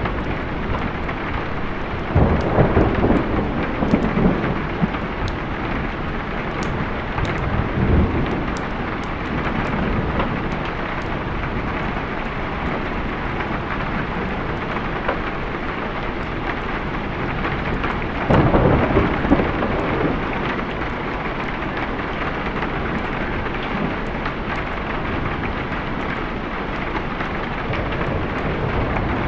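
Steady heavy rain with rolls of thunder rumbling over it: one about two seconds in, a shorter one around eight seconds, and another just past the middle.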